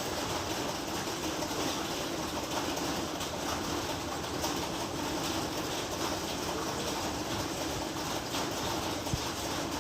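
Steady heavy rain, an even rushing patter with no thunder, and a single brief click near the end.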